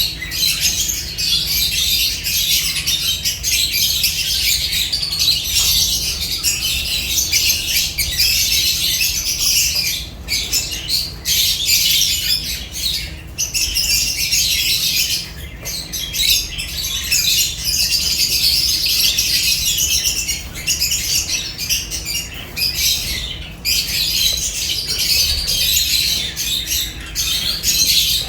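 A flock of lovebirds chattering and squawking together, a dense, continuous high-pitched twittering with only brief lulls.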